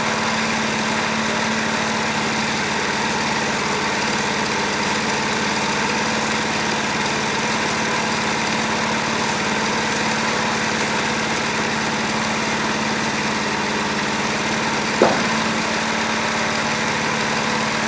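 Wood-Mizer LT15 portable sawmill's engine running steadily, with one sharp knock near the end.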